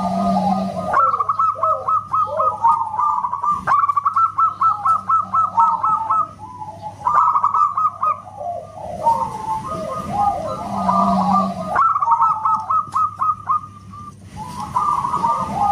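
Zebra doves (perkutut) cooing loudly in whistle-like phrases: fast runs of repeated staccato notes over lower warbling notes, several phrases overlapping, with brief lulls about six and fourteen seconds in.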